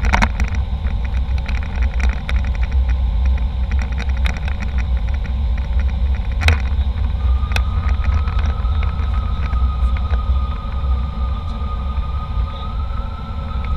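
Airliner cabin noise aboard an Embraer E190: a steady low rumble with frequent small rattles and clicks from the cabin fittings. A thin steady whine joins about seven seconds in.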